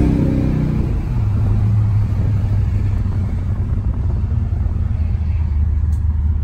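The 1993 Corvette's 500-horsepower V8 finishes a climb in revs, then eases off about a second in and settles into a steady low drone at cruise. The drone dips a little lower near the end.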